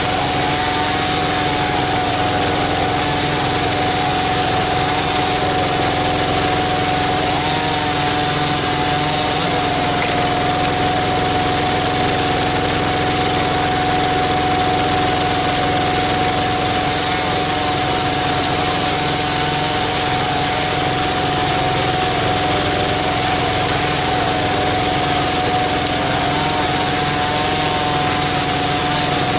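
Walking tractor (power tiller) engine running steadily, driving a screw-cone log splitter, with a steady high tone held over the engine sound.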